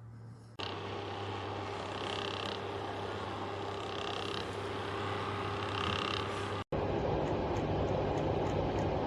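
Russell Hobbs 1800 W fan heater's fan running with a steady whir and low hum, switching on abruptly about half a second in.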